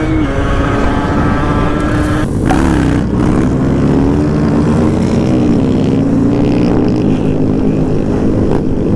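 Motorcycle engines running and revving, the pitch wavering up and down, with a short break a little over two seconds in.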